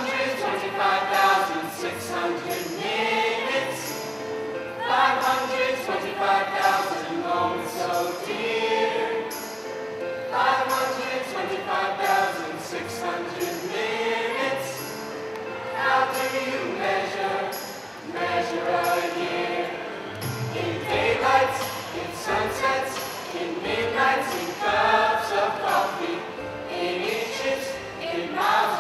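A choir singing, in phrases of a few seconds each.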